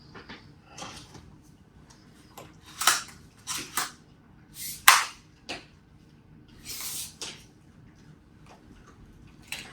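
Parts of a cordless stick vacuum and its packaging being handled: scattered clicks, knocks and brief rustles, the sharpest click about five seconds in.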